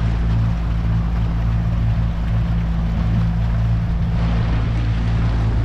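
Boat engine running steadily at an even, low drone.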